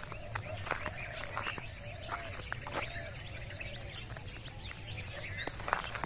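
Wild birds chirping in scrub, with short rising whistles and a lower wavering call in the first half, over a steady outdoor background.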